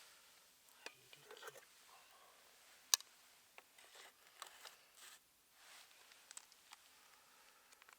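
Quiet handling noises of cooking gear: scattered light clicks and taps with brief rustles, and one sharp click about three seconds in.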